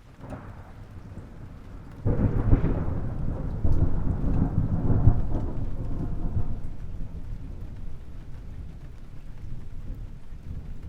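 A roll of thunder: a low rumble that breaks into a loud crack about two seconds in, then rolls on and slowly fades away.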